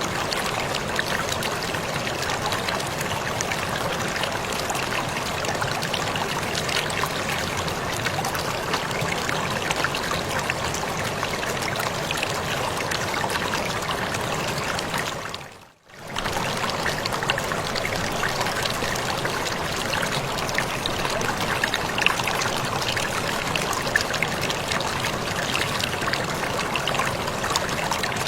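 Waterfall: a steady rush and splash of falling water. About halfway through it fades almost to silence for under a second, then comes straight back.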